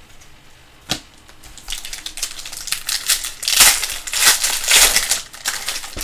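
A foil trading-card pack wrapper being torn open and crumpled: a single click about a second in, then a few seconds of crinkling that is loudest past the middle.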